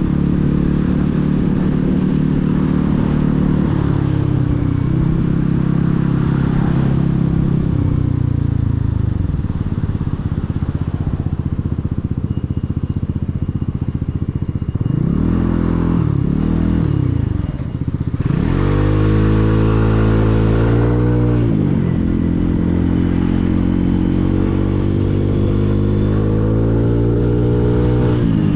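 Motorcycle engine heard from the rider's seat while riding through traffic: revs falling as it slows about eight seconds in, two quick blips of the throttle around halfway, then accelerating with rising pitch, a drop at a gear change, and revs climbing again toward the end.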